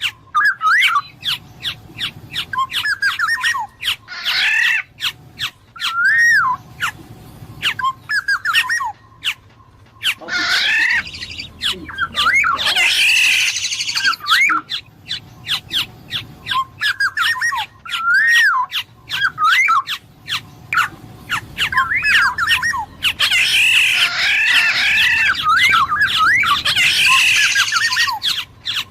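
Black-naped oriole (kepodang emas) calling: repeated liquid whistled phrases that glide up and down, mixed with harsher scratchy calls. Many short sharp clicks run throughout.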